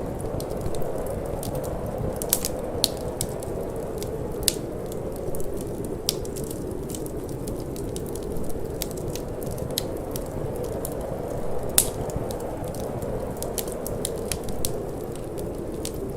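A wood fire crackling in a fireplace, with irregular sharp pops and snaps, the loudest about twelve seconds in. Underneath runs a steady low rushing of cold wind.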